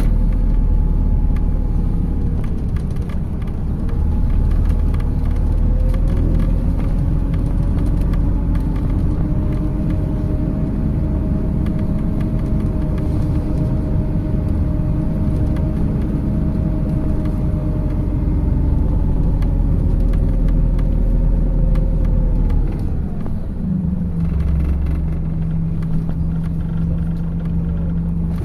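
Inside a MAZ 206 city bus under way: a steady low engine and road rumble with a drivetrain whine that climbs and holds as the bus runs at speed. About 23 seconds in the whine falls away as the bus slows, and a steady lower hum carries on to the end.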